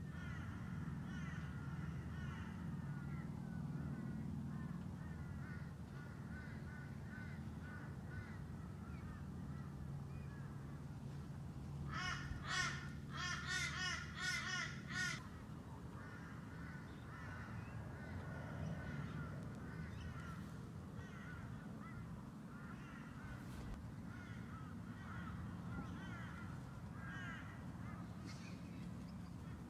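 A bird giving a quick run of about five loud, harsh calls about twelve seconds in, over faint chirping and a low steady hum.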